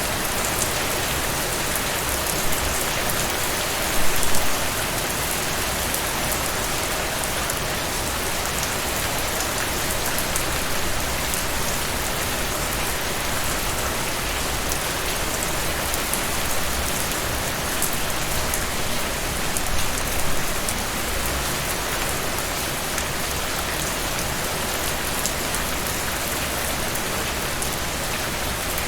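Heavy rain falling steadily, with the patter of individual drops; it briefly swells louder about four seconds in and again around twenty seconds.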